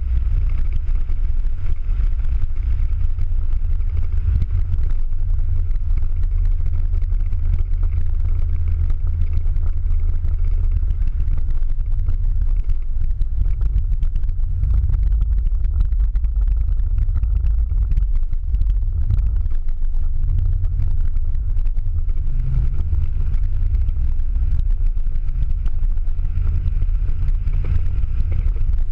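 Ford Mustang Boss 302's V8 engine and road noise heard from inside the cabin at track speed: a continuous low rumble that swells and eases as the throttle changes.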